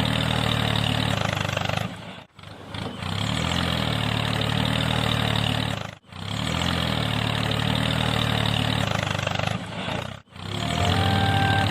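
A low engine-like running sound that repeats in stretches of about four seconds, with a brief sharp cut-out between each stretch.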